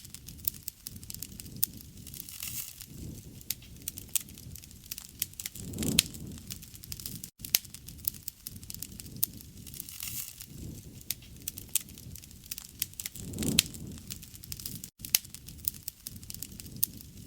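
Wood fire crackling, with a steady scatter of sharp pops and snaps and a low rushing swell of flame twice, about seven seconds apart. The sound drops out for an instant twice.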